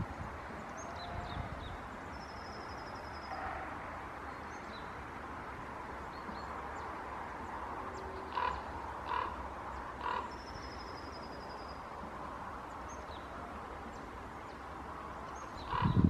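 Birds calling outdoors over a steady background hiss: faint, thin high songbird notes, and about eight seconds in three harsh calls less than a second apart.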